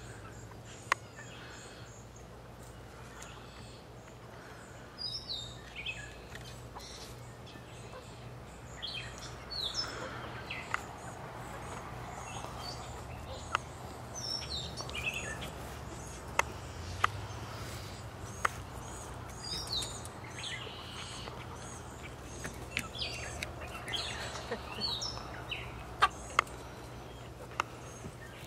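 Chickens chirping in many short, high calls that drop in pitch, scattered through, with occasional sharp clicks and a steady low hum underneath.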